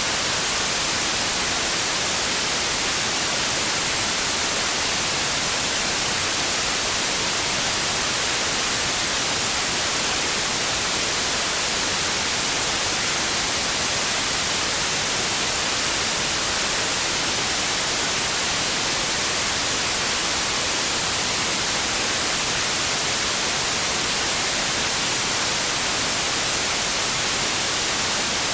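Steady white noise, an even hiss with no changes, heaviest in the treble.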